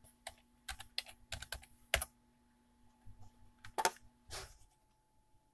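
Typing on a computer keyboard: irregular keystrokes in two short runs, the first in the opening two seconds and the second from about three to four and a half seconds in.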